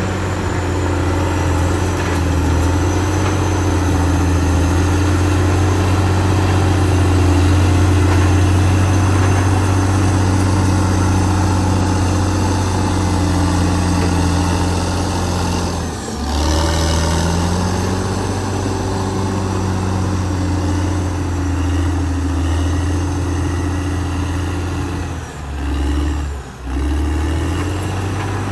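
Caterpillar D6R XL bulldozer's diesel engine running steadily, a low even drone with short drops in level about halfway through and twice near the end.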